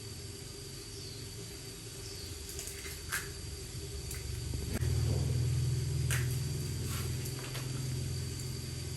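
A low, steady motor hum that gets louder about halfway through, with a few light clicks over it.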